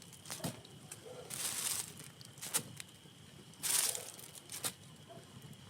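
Campfire crackling: a few sharp pops and two short hissing bursts, the louder one near the end.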